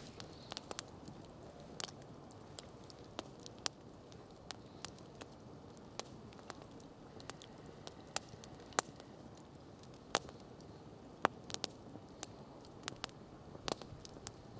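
Wood campfire crackling: irregular sharp snaps and pops, about two a second, over a low steady hiss from the burning fire.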